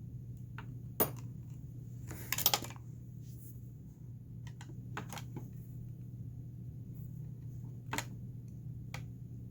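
Scattered small clicks and taps, with a short clatter about two and a half seconds in, from handling the opened electronic talking toy and its parts, over a steady low hum.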